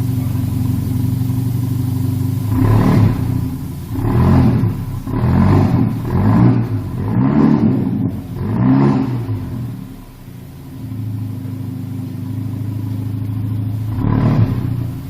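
Hyundai Tasman pickup's engine through an aftermarket variable (valved) exhaust. It idles steadily, is blipped up and back down about six times in quick succession from about three seconds in, settles back to idle, and is revved once more near the end.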